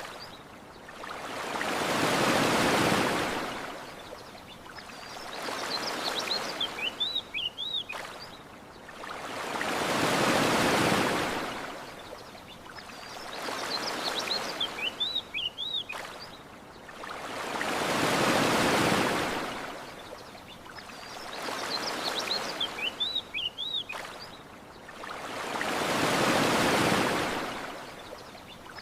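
Gentle ocean waves washing onto a shore, a large swell about every eight seconds with a smaller one between, and a short bird chirping phrase between the big swells. The whole pattern repeats exactly every eight seconds, as a looped recording, with a faint tick at each repeat.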